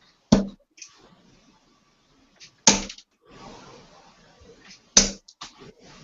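Three darts thudding into a dartboard one after another, evenly about two seconds apart, each hit followed by a faint click or two.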